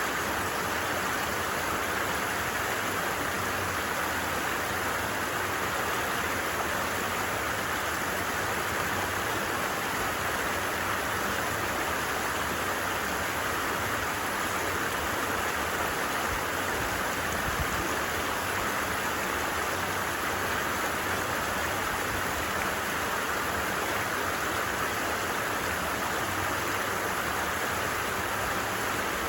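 Steady rushing and babbling of a flowing stream.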